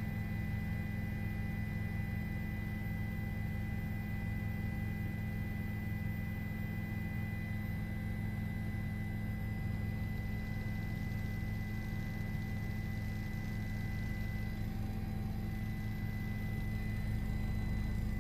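Steady drone of a news helicopter in flight, heard through the cabin intercom: an unbroken low hum with a faint high steady whine over it.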